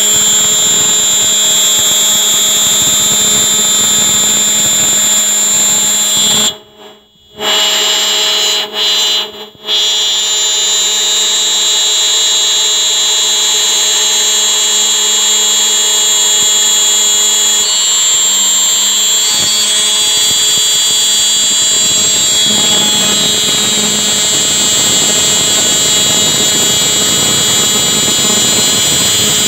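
CNC milling machine for aluminium profile locks running, its spindle giving a loud steady high-pitched whine over a dense machine noise. The sound cuts out briefly about seven seconds in and again near nine seconds, then carries on unchanged.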